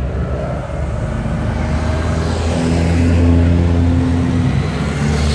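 Car engine running; its note rises about two and a half seconds in, holds for about two seconds, then drops back.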